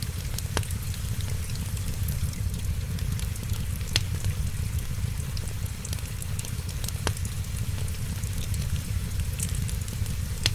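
Wood fire crackling in a fireplace over a steady low rumble, with many small ticks and three sharper pops: about half a second in, about four seconds in and about seven seconds in.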